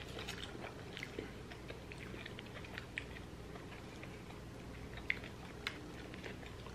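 Close mouth sounds of people chewing bacon cheeseburgers: soft wet smacks and clicks scattered throughout, a few sharper ones about three and five seconds in.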